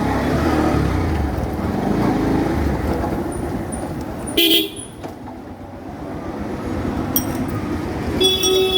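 Road traffic rumbling steadily, with a vehicle horn honking briefly about four and a half seconds in and again near the end.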